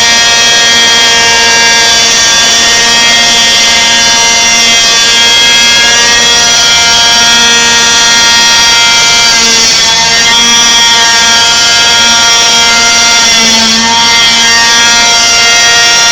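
Zenoah 27cc two-stroke petrol engine of a T-Rex 600 RC helicopter running steadily at hover through a tuned exhaust, very loud, with its speed dipping briefly twice.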